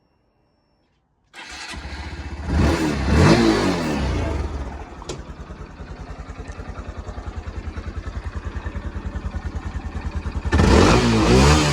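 Honda Grom JC61's 125 cc single-cylinder engine starting about a second in, revving up and back down once, then settling to a pulsing idle. Near the end it is blipped in quick repeated revs.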